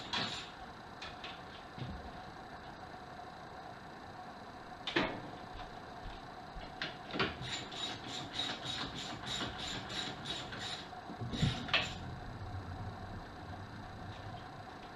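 Ratchet wrench with a 15 mm socket clicking in quick runs, about four clicks a second, while backing off the nuts that hold the master cylinder to the brake booster. A few sharper metal knocks come about five seconds in, seven seconds in, and near the end of the clicking.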